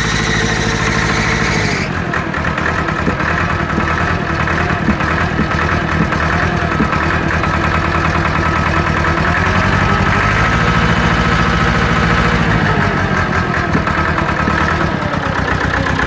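Massey Ferguson 275's Perkins diesel engine running, with some belt noise. The engine note drops about two seconds in and comes up a little again past the middle. The owner takes its rough running and white smoke for a bad injector starving one cylinder of fuel.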